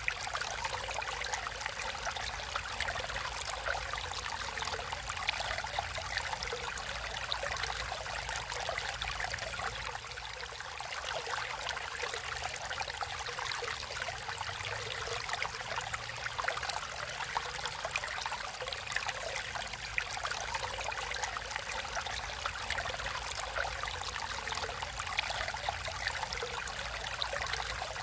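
Water flowing steadily in a natural stream, with a constant trickling and splashing that never pauses.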